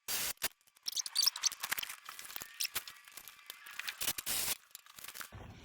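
Hand tools working on steel brackets: scattered clicks and knocks with short rasping, scraping bursts.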